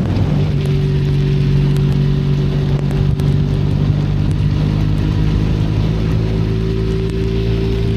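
Benelli Leoncino 500's parallel-twin engine running at a steady, even pitch under way, its note settling just after the start, over a steady hiss of rain and wind.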